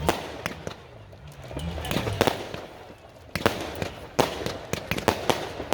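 Fireworks going off all around: about ten sharp bangs and pops at irregular intervals.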